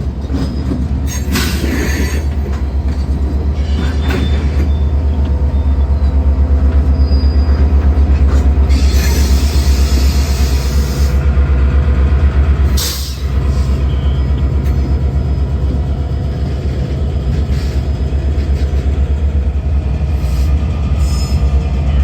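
Diesel locomotive and railcars moving close by during switching: a loud, steady low engine throb, broken by short bursts of higher squealing and hissing from the wheels.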